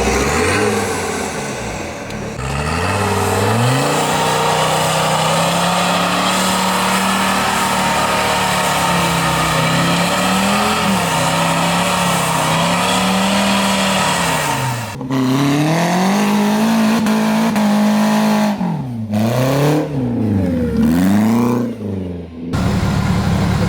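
Off-road 4x4 competition vehicle's engine revving hard, its pitch rising and falling again and again as the throttle is worked, with several abrupt breaks in the sound.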